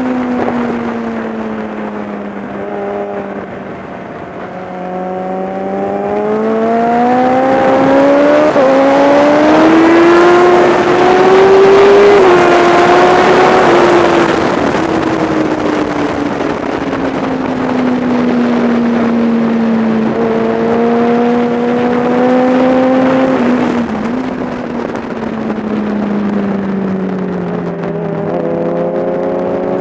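Kawasaki ZX-10R inline-four engine at track speed, with wind rushing past. The revs drop into a corner, climb hard with a couple of quick gear changes about a third of the way in, ease off and hold, then fall again near the end before picking back up.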